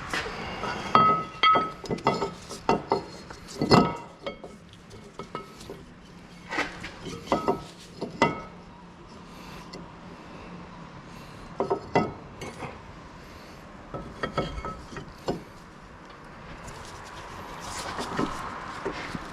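Metal hand tools and parts clinking and knocking at irregular intervals, some clinks ringing briefly, as work goes on at a car's front brakes.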